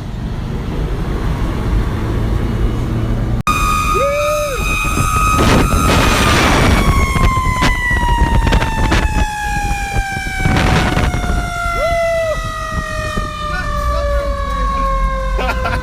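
Fire truck siren over the truck's engine rumble: a few seconds in it sounds a steady wail, then winds slowly and evenly down in pitch. A rider whoops a couple of times, and there are two brief bursts of rushing noise.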